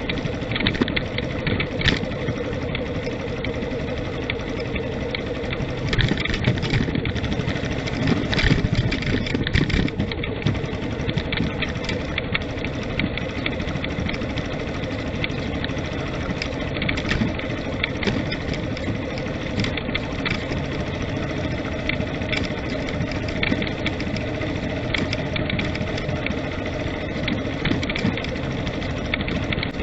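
A vehicle driving: its engine runs steadily under continuous road noise, with frequent short knocks and rattles from the ride.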